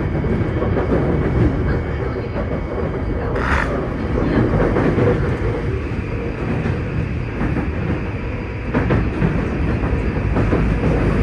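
A Tokyu 2020 series electric train running at speed, heard from inside the car: a steady wheel-on-rail rumble with rail-joint clatter. About three and a half seconds in there is a short rush of noise, and the rumble is a little louder afterwards as the train runs through a tunnel.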